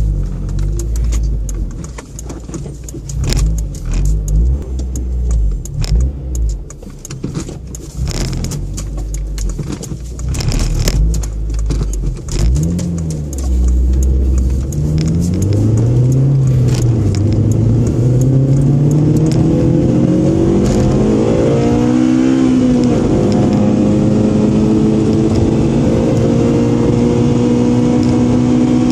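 Honda car heard from inside the cabin: in the first half a low engine rumble with frequent rattles and clicks, then from about halfway the engine revs climb through a couple of gear changes and settle into a steady high-revving drone under hard acceleration.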